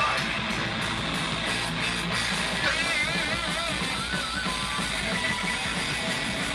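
Rock music with electric guitar and drums, a wavering vocal or lead line over it partway through.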